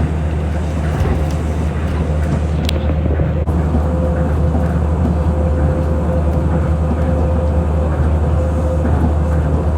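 A vehicle in motion heard from inside: a steady low rumble with a steady mid-pitched hum over it.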